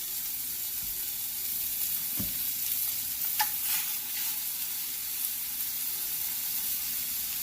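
Chicken thighs sizzling and searing in a dry, well-preheated pan with no oil: a steady hiss with a few crackles.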